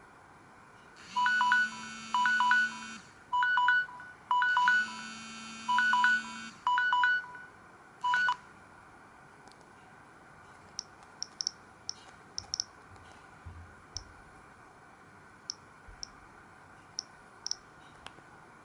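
Samsung GT-C3222W mobile phone playing one of its built-in ringtones through its small speaker: a short electronic melody of repeated beeping phrases, with a low buzzing tone under two of them, lasting about seven seconds. After it comes a scatter of faint light clicks.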